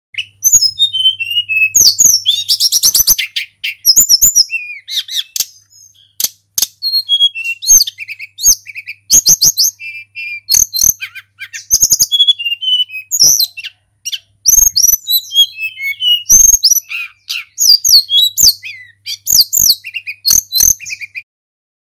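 Tledekan gunung singing a long, varied song of quick whistled phrases and trills, phrase after phrase with short pauses between.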